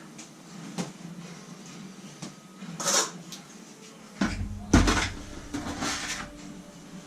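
Steel tiling trowel scraping and clanking against a bucket of thinset mortar: a few separate scrapes and knocks, the heaviest a little past halfway.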